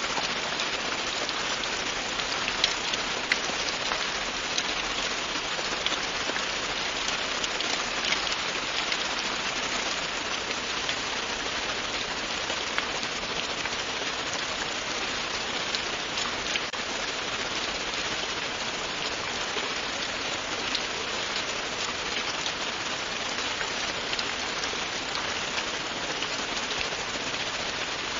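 Steady, continuous rain falling and pattering on a surface, with scattered individual drop ticks.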